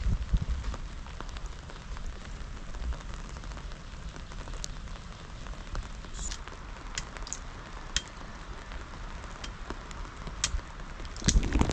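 Steady rain falling, an even hiss scattered with sharp ticks of single drops striking a surface. Just before the end there is a brief, louder noise.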